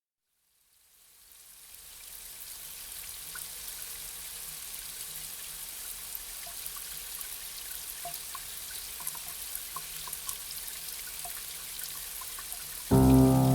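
Gentle rain fading in from silence over the first couple of seconds, then falling steadily as a soft hiss with scattered individual drops. Near the end, music starts suddenly and is louder than the rain.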